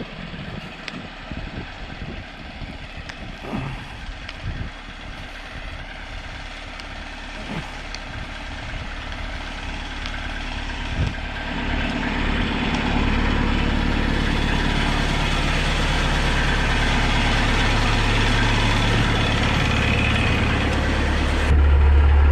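Kubota B3000 compact tractor's diesel engine idling, with irregular steps crunching through deep snow in the first half. The engine hum grows louder and steadier about halfway through as the tractor is reached. Near the end it jumps up sharply in level.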